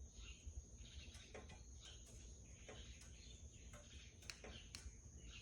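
Near silence: faint background of insects and birds, with a steady high-pitched insect drone and scattered faint chirps.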